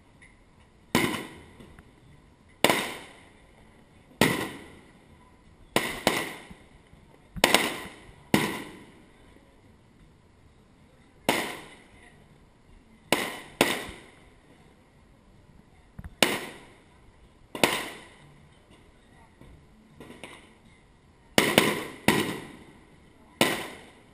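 Aerial fireworks shells bursting one after another: about fifteen sharp bangs, one every second or two with a few in quick pairs, each trailing off in an echo.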